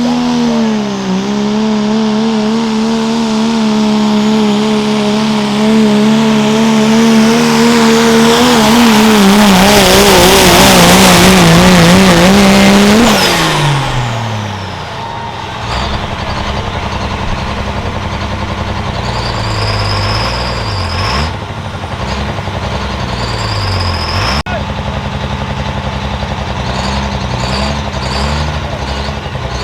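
Turbocharged diesel pickup pulling a sled at full throttle, its engine note steady and then wavering as the run builds to a loud peak. About 13 seconds in the revs drop away, and the engine settles to a lower rumble with a few falling rev-downs and a couple of brief high whistles.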